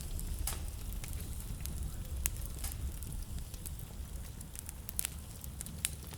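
Wood fire crackling in a fireplace: scattered sharp pops and snaps, a dozen or so, over a steady low rumble.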